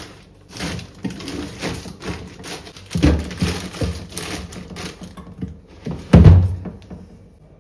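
Food containers and items being handled and set down on fridge shelves: a run of irregular knocks, clatters and rustles, with a heavy thump about three seconds in and the loudest thump about six seconds in, then it quiets down.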